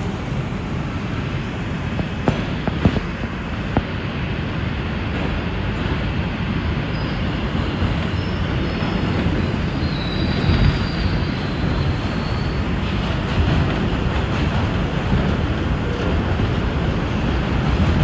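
R142 subway car running between stations, heard from inside the car: a steady low rumble of wheels on rail, with a few sharp clicks a couple of seconds in and a faint high wheel squeal near the middle.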